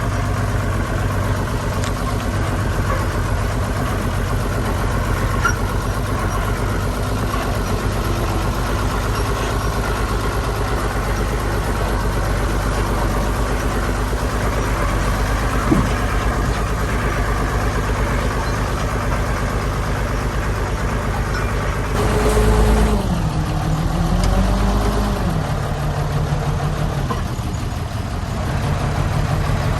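Heavy diesel engine of an earthmoving machine running steadily. About two-thirds of the way through, its note dips and climbs again as the revs change, then settles. There is one short knock around the middle.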